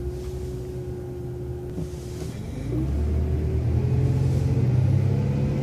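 City transit bus engine idling, heard from inside the bus, then speeding up about halfway through with a rising whine as the bus pulls away.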